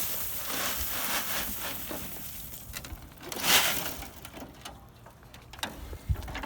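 Loose construction debris being shifted, a gritty crunching and scraping. There is a louder burst about three and a half seconds in, then a few scattered clicks.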